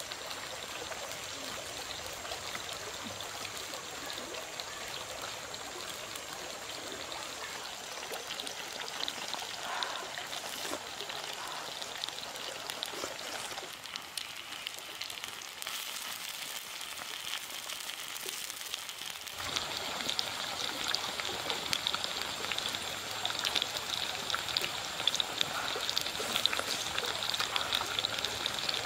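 Pork, mushrooms and vegetables sizzling in a hot pan over a wood fire, with a running stream alongside. About two-thirds of the way through, the sizzle turns louder and more crackly.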